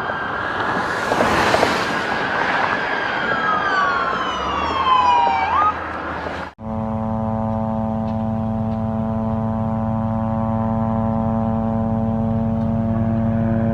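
Police car siren wailing, its pitch sweeping down and then jumping back up. About six and a half seconds in the sound cuts off suddenly, and a steady drone with many even overtones takes over.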